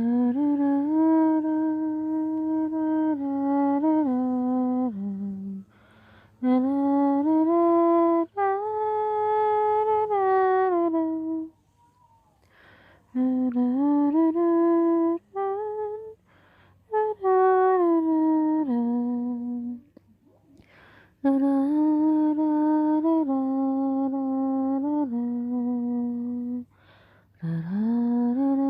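A person humming a slow lullaby without words, holding long steady notes in phrases of a few seconds with short breaks between them.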